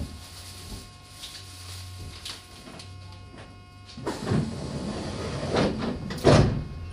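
Meitetsu 6800 series commuter train car standing at a platform with its doors open: a steady low hum from the stationary car, then rustling and knocks from about four seconds in, with a loud thump a little after six seconds.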